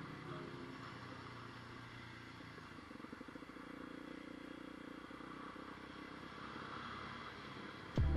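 Aprilia RX125 single-cylinder motorcycle engine running steadily while the bike is ridden at low speed.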